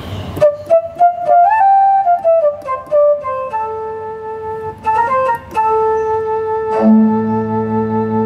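Yamaha CK61 stage keyboard playing a flute-like wind voice: a quick run of short notes, then long held notes, with a low held note joining near the end.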